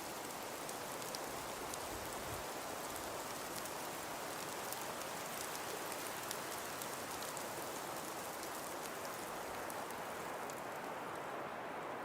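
Steady hiss of wind and falling snow, with many fine light ticks of snow pattering on surfaces. Near the end the ticking and the upper part of the hiss die down.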